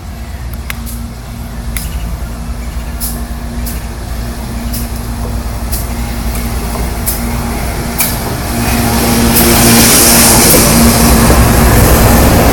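GE ES44AC diesel-electric locomotive approaching with a steady engine drone and low rumble, with scattered sharp clicks. It grows steadily louder and swells to full volume about two-thirds of the way in, as the rushing noise of the passing train fills in.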